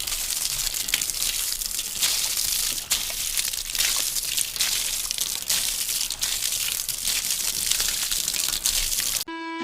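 Dense crackling, rustling noise full of small clicks, strongest in the high range; it cuts off suddenly near the end as music comes in.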